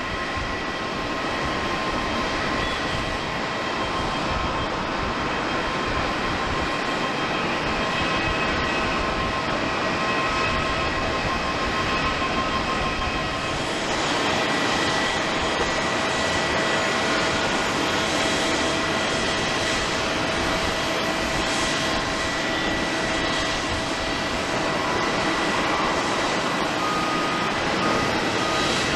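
Jet airliner engines running, a steady noise with high whining tones over it, first a Boeing 767-300ER and then, after a change about halfway through, a Boeing 737-800.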